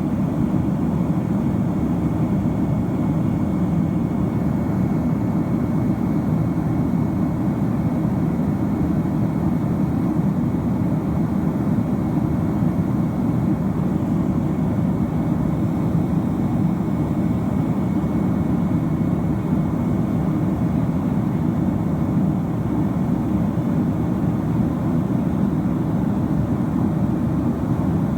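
Steady jet engine and airflow noise heard inside the cabin of a Boeing 767-300ER, an even low rumble that neither rises nor falls.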